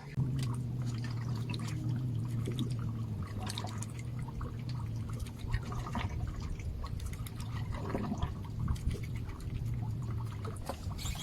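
Water sloshing and lapping against a fishing boat's hull in irregular small splashes, over a steady low hum.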